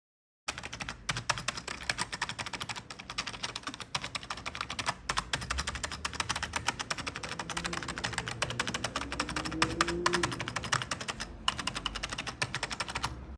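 Fast, continuous typing on a vintage computer keyboard, a dense clatter of key clicks that starts about half a second in.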